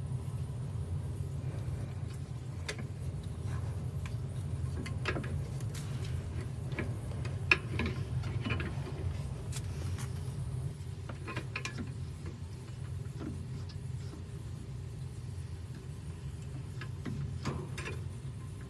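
Scattered clicks, taps and light metallic clinks of washing-machine parts and fasteners being handled and fitted, with one sharper knock about halfway through, over a steady low hum.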